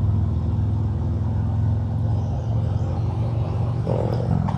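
Harley-Davidson Road King's Milwaukee-Eight V-twin engine running steadily while cruising, a low even drone, heard through helmet microphones.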